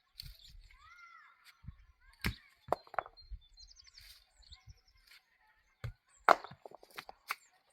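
Several sharp, hard blows like a tool chopping or striking, in two groups of about three with a pause between. A bird chirps faintly in the gap.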